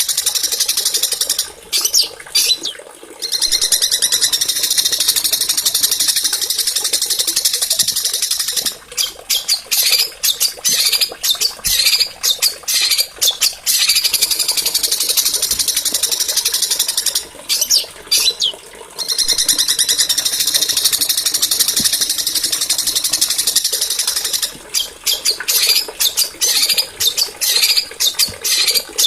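A small songbird singing high, shrill, very fast rolling trills almost without pause. The song breaks off briefly a few times into choppy bursts, then resumes.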